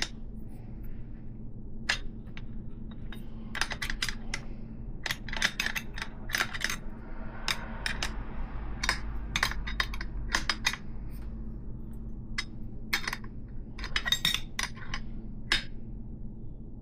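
A 15 mm wrench clinking and scraping on a BMX hub's 3/8-inch axle nut as it is tightened: irregular metallic clicks, some in quick runs.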